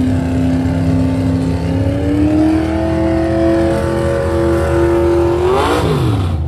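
A show car's engine running at a steady fast idle. About two seconds in it climbs to a higher speed and holds there, then it is revved up and down sharply near the end.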